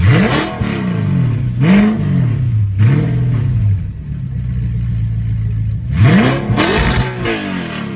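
An Audi's engine idling and being revved in sharp blips: two quick revs near the start and a smaller one that fall back to idle, then one bigger rev a few seconds later that dies back down.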